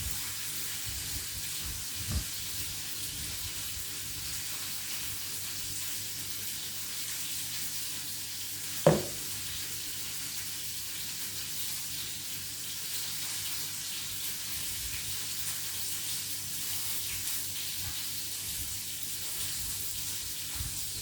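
Chicken fillets frying in oil in a pan, giving a steady sizzle. A sharp knock comes about 9 seconds in, the loudest sound, and a lighter one about 2 seconds in.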